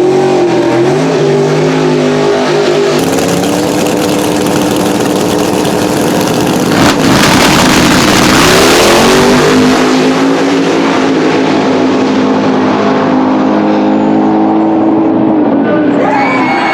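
Twin-turbocharged V8 drag car running at full throttle down the strip, very loud. Its engine pitch climbs and levels off in steps through the gear changes, with a sudden loud jump about seven seconds in and the loudest stretch just after.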